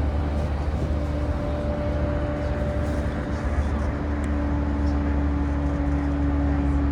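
Running sound inside the motor car of a JR East E235-1000 series EMU with Mitsubishi full-SiC MOSFET VVVF inverter: a steady low rumble of wheels on rail with a steady motor tone held at one pitch over it.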